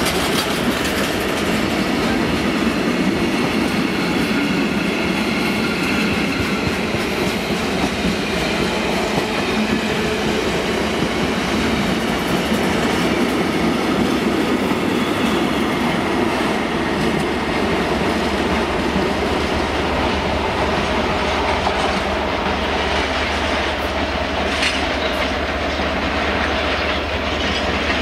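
Freight train of loaded bogie tank wagons rolling steadily past at close range, wheels rattling and clicking over the rail joints, with a faint high wheel squeal at times.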